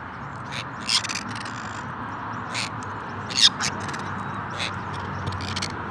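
Half-moon (orange-fronted) conure giving short, harsh squawks, about six of them at irregular gaps, the loudest about three and a half seconds in, over a steady background hiss.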